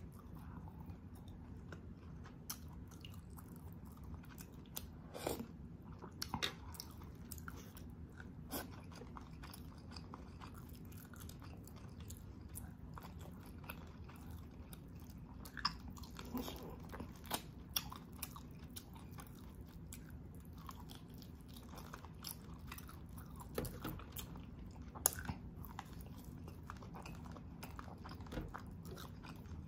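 Close-up eating sounds: a person chewing braised beef oxtail, wet mouth noises with scattered short clicks and a few sharper snaps, over a steady low hum.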